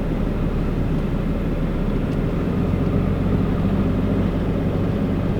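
Ram pickup's Cummins diesel engine running steadily at low speed, a constant low drone.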